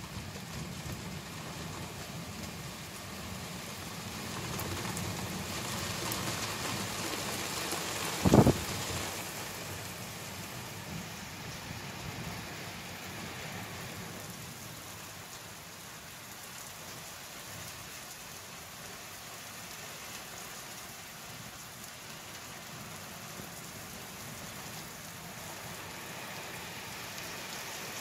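Steady heavy rain falling during a thunderstorm, swelling for a few seconds, with one sudden loud thump about eight seconds in.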